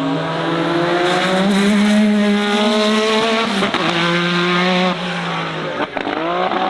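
A car doing a donut: its engine is held at high revs with the pitch swinging up and down, over the hiss of spinning tyres squealing. The revs drop sharply twice, about halfway through and near the end, and then climb again.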